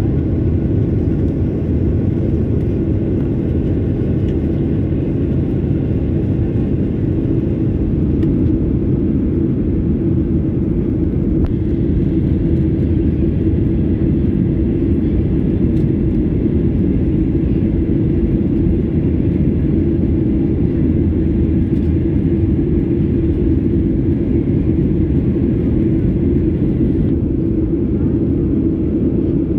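Steady engine and airflow rumble of a Boeing 737-800 in flight, heard inside the cabin, with a constant low hum running through it.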